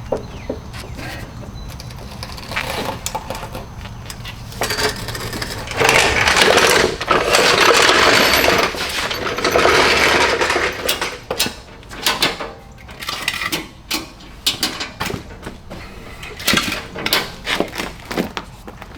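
Clattering and scraping of a metal fold-out RV step unit being handled and shifted into place. A loud, rough scraping rattle lasts several seconds in the middle, then comes a quick run of sharp clanks and knocks.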